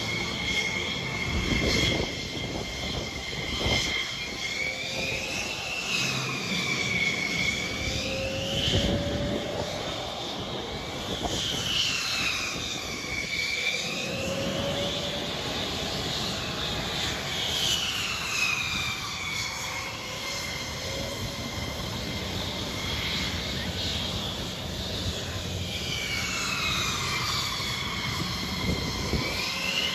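Jet engines of display aircraft taxiing toward the runway, a steady jet noise with a high whine that dips and climbs back in pitch several times.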